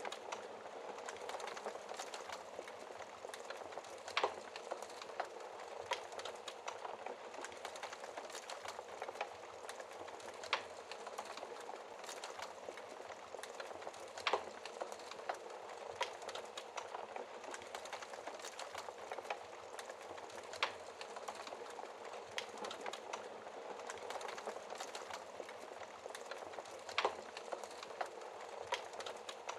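Wood fire crackling steadily in a fireplace, a dense run of small snaps with a louder sharp pop every few seconds.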